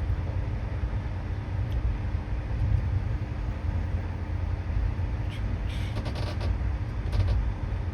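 Steady low rumble of a moving vehicle heard from inside, with a constant hum and a few light rattles or clicks between about five and seven seconds in.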